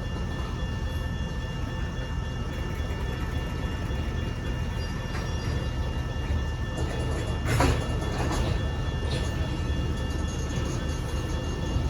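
Freight train rolling past with a steady rumble of wheels on rail. A short, sharp sound stands out about seven and a half seconds in.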